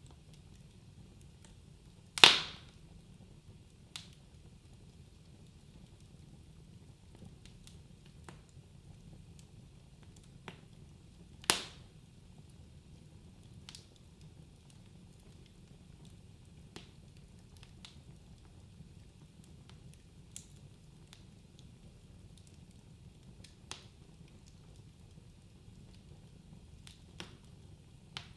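Wood fire crackling in a fireplace: a low, steady rustle of burning logs broken by sharp pops. Two loud snaps come about two seconds in and near the middle, with fainter ticks every few seconds.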